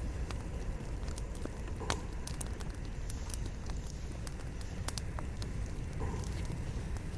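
Wood fire burning: a steady low rumble of the flames with irregular sharp crackles and pops from the burning logs.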